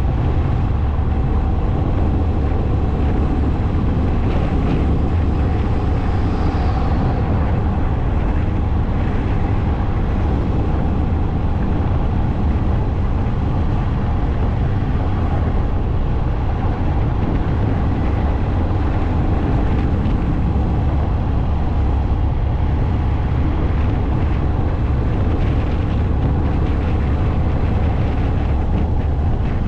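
Steady rumble of a moving motorcycle with wind noise on the microphone, heavy in the low end and even in loudness throughout.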